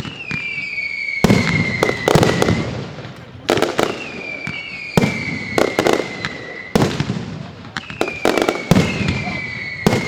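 Fireworks display: aerial shells bursting with sharp bangs, several close together, over three long firework whistles that each slide slowly down in pitch for about two seconds.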